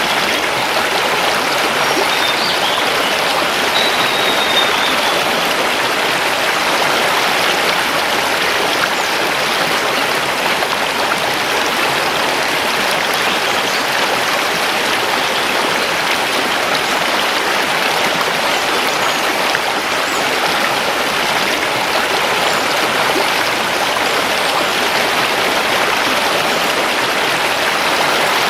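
Mountain river rushing and splashing over stones in a steady, even flow, with a faint short bird whistle about four seconds in.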